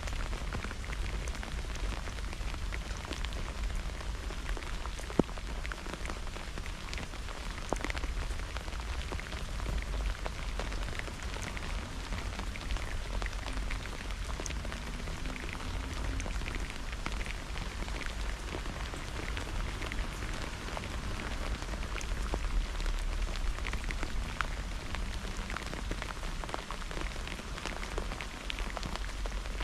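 Steady rain falling, with many close drops ticking and a single sharp click about five seconds in, over a steady low rumble.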